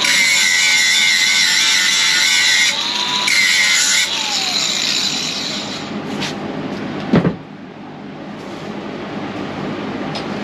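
Angle grinder bevelling the edge of a steel truck frame rail, its whine wavering under load. It stops briefly near 3 seconds, runs again, and then is switched off about four seconds in and winds down. A single sharp knock follows about seven seconds in.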